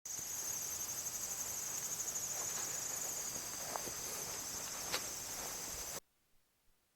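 Insects trilling steadily in a high, finely pulsing chorus, with a small click about five seconds in; the sound cuts off suddenly about a second before the end.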